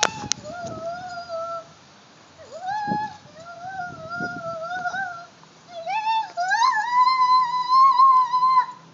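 A pet 'singing': a series of long, drawn-out howls, each sliding up at the start and then held. The last howl, near the end, is higher, louder and the longest.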